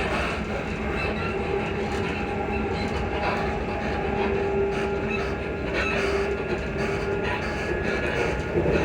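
Class 334 electric multiple unit running along the line, heard from inside the carriage: a steady rumble of wheels on rail with a held tone under it and a few faint knocks.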